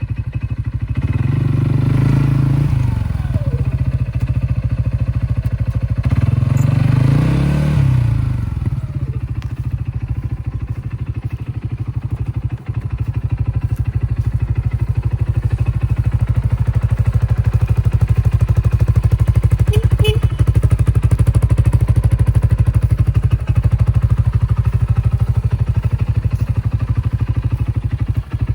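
2021 CFMoto 400S motorcycle engine idling, revved briefly twice with the throttle, about a second in and again around six seconds in, each time dropping back to a steady idle.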